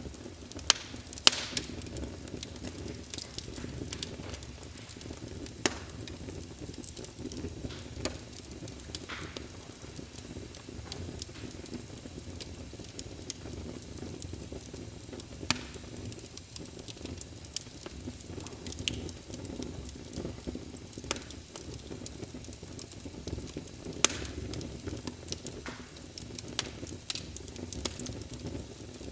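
Wood fire burning in a fireplace: a steady low rumble of flame with scattered sharp pops and crackles from the logs, a few seconds apart.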